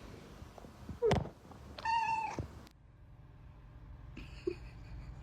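A domestic cat meowing: one drawn-out meow about two seconds in, after a brief sharp sound about a second in. After that only a steady low hum remains.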